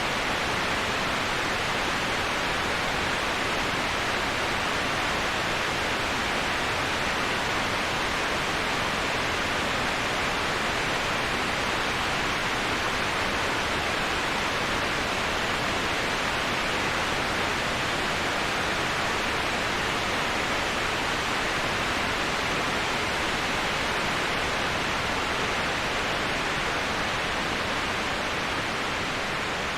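Steady rush of a waterfall, used as white noise: an even, unbroken hiss with more hiss than rumble, easing slightly in level near the end.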